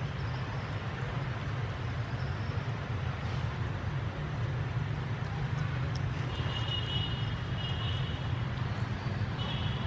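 Steady low outdoor rumble with no clear events, like distant engine or traffic noise. Twice in the second half, faint high-pitched chirping.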